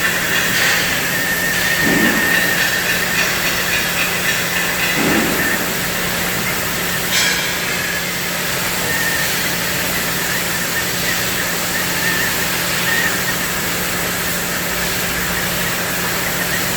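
Steady hissing of a CNC cutting machine's torch, gas or plasma, over a steady low machine hum, with a brief sharp click about seven seconds in.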